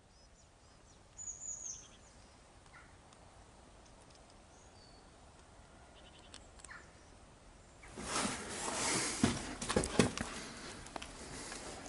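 Quiet outdoor background with a few short, high bird chirps, the clearest about a second and a half in. About eight seconds in it gives way suddenly to louder rustling and scattered knocks of movement close by.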